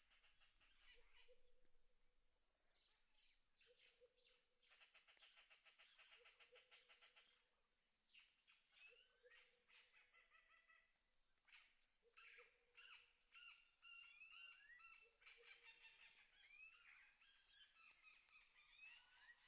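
Faint birdsong: several birds chirping and trilling, with a short low note repeated every second or two.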